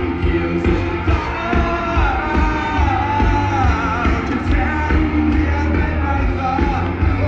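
Rock band playing live with a lead vocalist singing over guitars, bass and drums, heard through a crowd recording with a heavy, booming low end.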